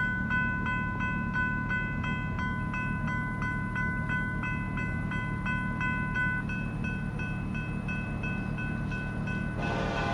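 A railroad crossing bell rings steadily at about three strokes a second over the low rumble of an approaching Norfolk Southern freight train. Near the end, loud wheel-and-rail noise sets in as the train reaches the spot.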